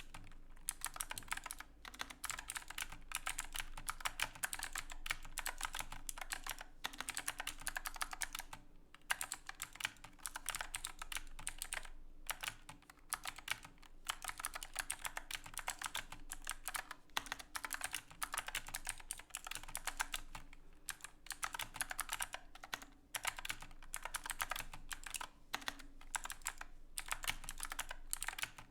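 Typing on an Epomaker AK84S mechanical keyboard with clicky Chocolate Blue switches under silicone keycaps: a fast, continuous run of key clicks, broken by a few short pauses.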